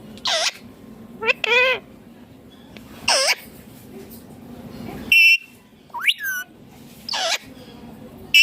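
Indian ringneck parrot (rose-ringed parakeet) giving a series of short, sharp calls, about seven in eight seconds, several sweeping steeply up in pitch, with a harsher buzzy call about five seconds in.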